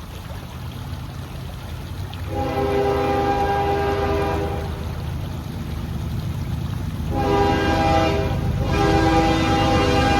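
CSX freight locomotive sounding its air horn, several notes at once, in long blasts: one about two seconds in, another about seven seconds in, and a third starting right after it. A steady low rumble of the approaching train runs underneath.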